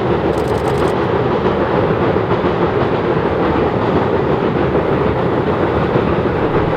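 Steam-hauled passenger train behind C57 180 running past close by: a loud, steady rumble and rail noise from the locomotive and carriages.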